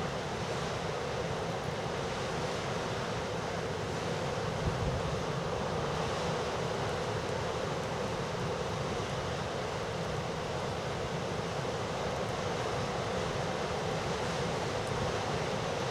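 Heavy storm surf and wind: a steady, unbroken rush of breaking waves, with a brief low gust about five seconds in.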